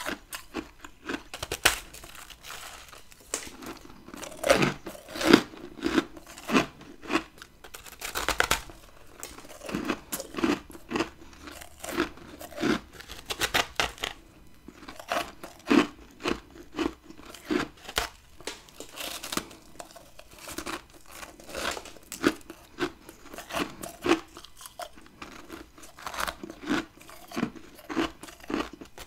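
Close-miked bites into hard chunks of freezer frost, each a sharp crunch followed by crackly chewing of the ice, repeating every second or two.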